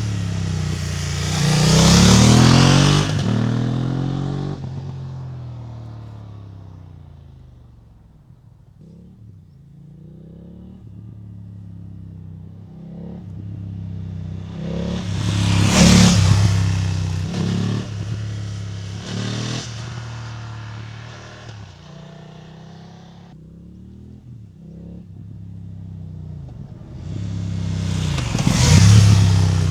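BMW F900R motorcycle with its parallel-twin engine riding past three times: it swells loud about two seconds in, again midway and again near the end, the pitch bending as each pass goes by, with the engine fainter in between.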